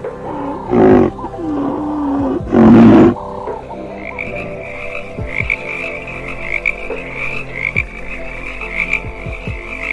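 Animal calls: two short, loud calls in the first three seconds, the second one deep and loud, then a high pulsing trill from about four seconds in.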